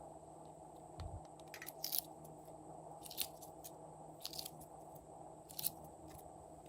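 Slime being squished and mixed by hand: bursts of sharp, crackly popping clicks come about five times, a second or so apart.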